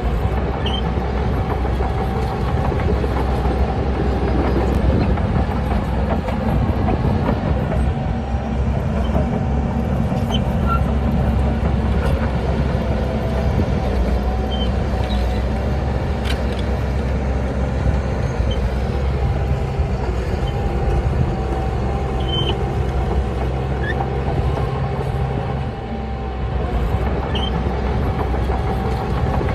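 Heavy diesel engine of a Shantui DH17C bulldozer running steadily under load. A steady whine rides over the low engine drone, with a few faint clicks.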